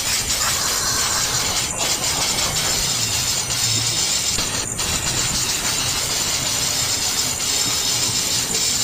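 Steady hiss, strongest in the high range, with a few faint clicks.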